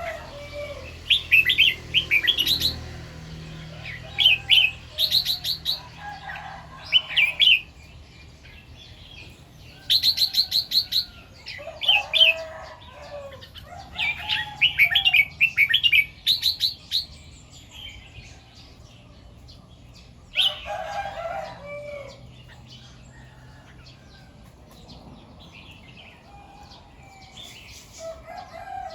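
Red-whiskered bulbul singing: short bursts of bright chirping phrases, repeated every few seconds with short pauses between.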